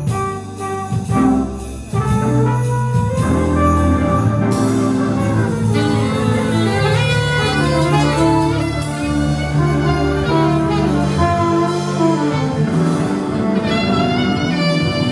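Small jazz band playing a tune live, a bass line under melodic horn-like lines, with a brief drop in level about two seconds in before the full band resumes.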